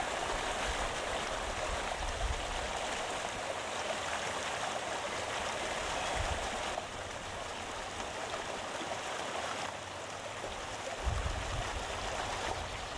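Waterfall: a steady rush of falling water, with short low rumbles now and then and a stronger one near the end.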